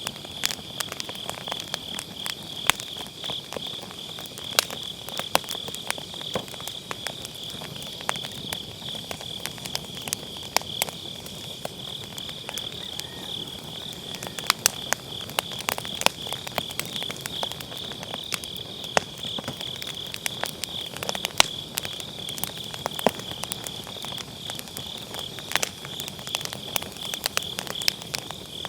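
Firewood burning in a fire pit, crackling with frequent irregular sharp pops, over the steady pulsing trill of autumn grass insects.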